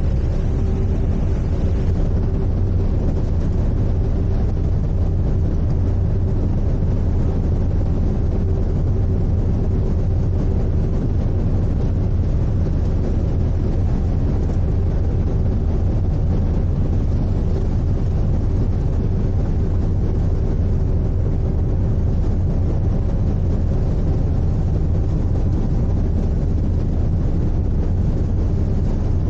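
Sightseeing icebreaker's engines and hull giving a steady low rumble with a faint even hum, unchanging throughout.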